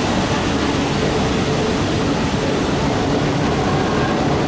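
E4 series Max Shinkansen train moving along the platform close by: a steady, loud rumble of wheels and traction equipment with a faint low hum.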